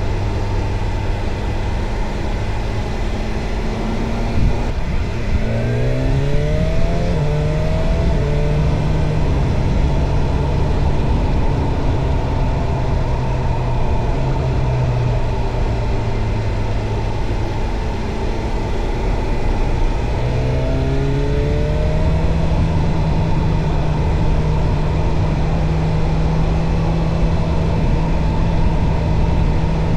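BMW S1000R's inline-four engine running at steady cruising revs, rising in pitch as the throttle is opened about five seconds in and again about twenty seconds in, then holding the higher note. A steady rush of noise runs underneath.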